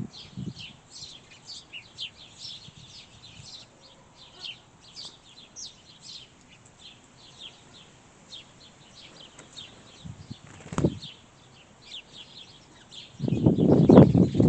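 Small songbirds chirping in quick, thin, high notes throughout, with a single sharp knock about two-thirds through. Near the end comes a loud burst of wings flapping close by.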